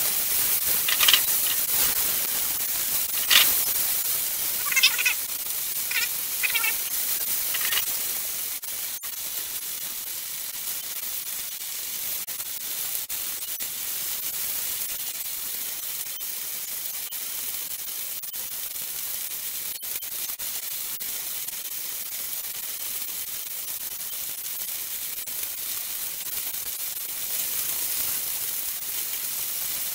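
Honey-soy marinated salmon chunks sizzling steadily in a hot wok, with metal tongs clinking and scraping against the wok several times in the first eight seconds as the pieces are turned.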